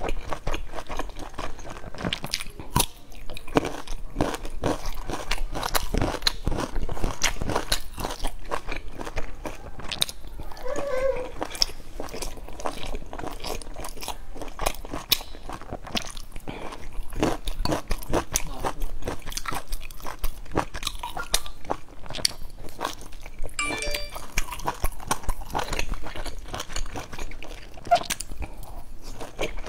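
A person biting and chewing large steamed dumplings, heard as a dense, uneven run of mouth clicks and smacks.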